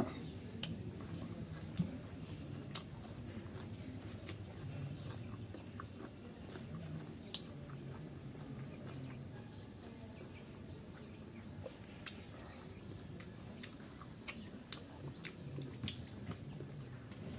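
Faint close-up chewing and wet mouth sounds of a man eating rice and chicken curry by hand, with small scattered clicks and smacks.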